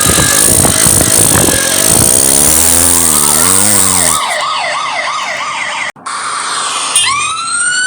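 Cartoon vehicle sound effects: engine-like noise with wobbling pitch, then a police siren with a fast warble, a brief cut-out, and a rising siren wail near the end.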